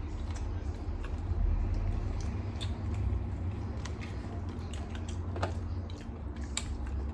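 People chewing small cream-puff snacks close to the microphone: scattered small mouth clicks over a steady low rumble.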